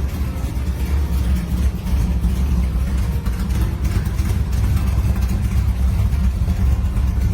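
A car engine running with a steady, deep exhaust rumble.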